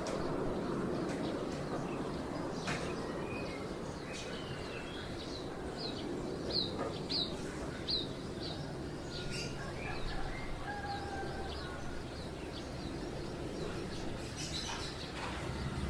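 Small birds chirping over a steady low background rumble, with a quick run of bright chirps about six to eight seconds in.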